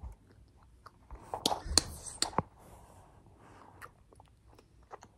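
Small mouth and handling sounds of a child drinking: scattered soft clicks, with a short run of sharper clicks and crinkles around the middle.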